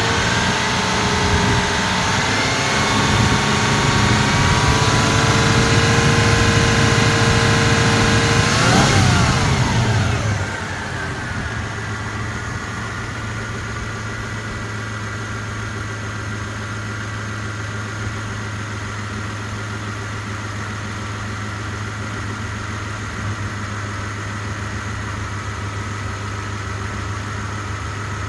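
Toyota 3.4-litre DOHC V6 running, its pitch climbing slowly for the first eight seconds or so, sweeping up and back around nine seconds, then dropping about ten seconds in to a steady idle.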